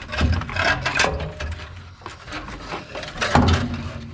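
Irregular metal clunks and scrapes from a heavy starter motor being handled after removal, with a heavier thump about three and a half seconds in.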